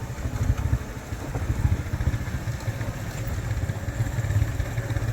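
Steady low rumble of a vehicle on the move, heard from on board, with uneven buffeting in the bass.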